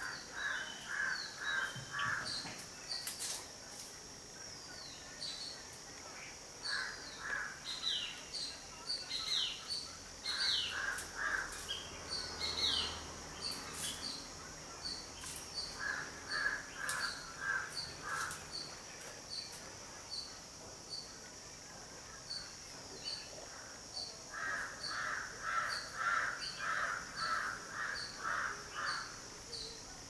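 Garden birds calling over a steady high insect drone: runs of quick repeated harsh notes, four to about a dozen at a time, with short falling whistles and a regular high ticking about twice a second.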